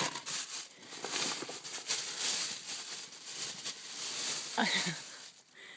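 Close rustling and crinkling of handled items, many small crackles in a row, as someone rummages for a crochet project.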